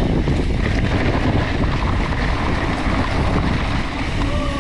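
Wind buffeting the microphone over the rumble and rattle of mountain bike tyres rolling on a dirt trail, heavy and steady throughout.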